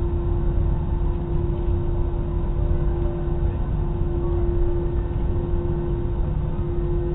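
Steady engine rumble and airflow noise inside an airliner cabin, with one strong steady droning tone above it.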